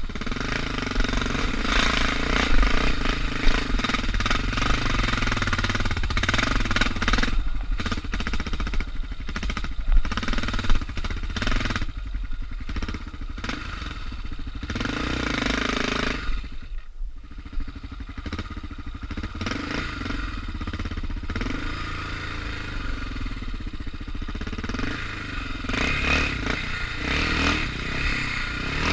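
Suzuki DR650's single-cylinder engine pulling at low revs, its pitch rising and falling with the throttle, with knocks and rattles from the bike over rough ground. About halfway through the engine eases off briefly before pulling again.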